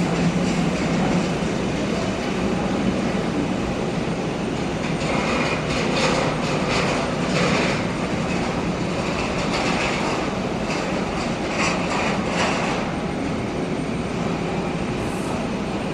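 Jet aircraft engines running at the airport, a steady dull roar with repeated brief hissing surges between about five and thirteen seconds in.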